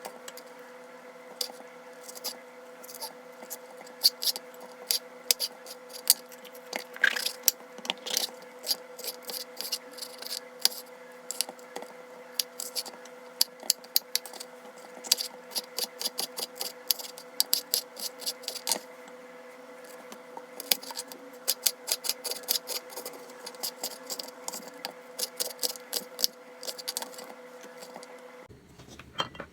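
Rapid, irregular small clicks and clinks, like kitchen utensils being handled, over a steady humming appliance that stops shortly before the end.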